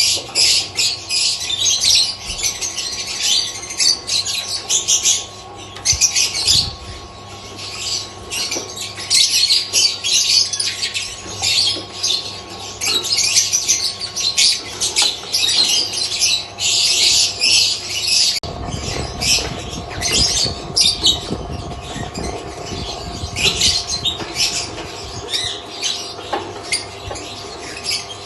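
Lovebirds chattering and squawking continuously in rapid, shrill bursts over a steady hum. About two-thirds of the way in, a low rumbling noise joins them.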